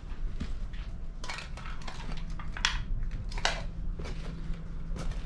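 Footsteps crunching over brick rubble and debris, an uneven run of gritty crunches about once a second.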